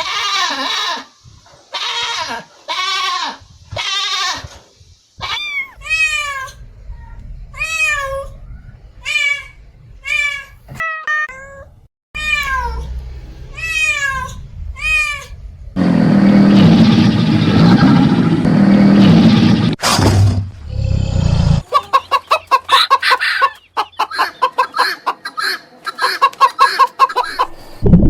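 A string of different animal calls, one after another: repeated pitched calls about a second apart, then many short calls that rise and fall in pitch, a loud rough noisy stretch in the middle, and rapid pulsed calls near the end.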